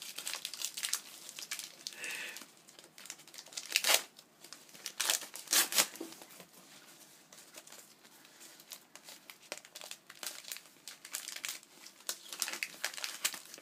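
Packaging being handled while items are unpacked from a box: wrapping crinkling and rustling in irregular bursts, loudest between about four and six seconds in.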